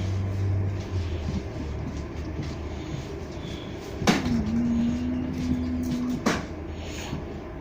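Inside a U2 light-rail car: a steady low hum, then a sharp knock about four seconds in, followed by a steady low tone held for about two seconds and ended by a second knock.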